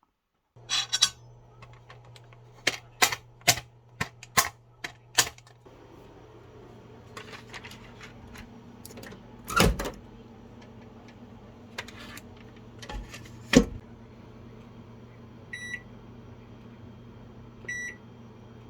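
Microwave oven running with a steady low hum, after a quick series of sharp clicks over the first few seconds. Two louder knocks come in the middle, and short high beeps sound twice near the end.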